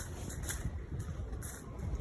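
Wind gusting over the microphone, a steady low rumble.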